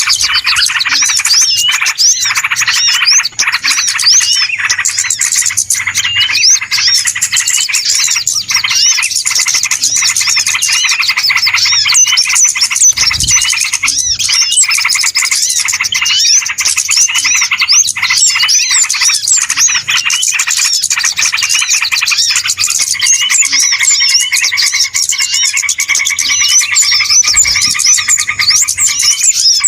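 A dense, unbroken chorus of many small birds chirping and twittering at once, a noisy flock sound of the kind played as a bird-trapping lure (suara pikat). A lower repeated call joins in about two-thirds of the way through.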